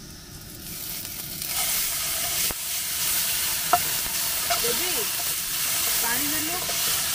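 Chopped onions and masala paste frying in hot oil in a metal wok (kadai), with a steady sizzle that swells about a second and a half in as the paste hits the oil. A metal slotted spoon scrapes and stirs against the pan, with a few sharp clicks.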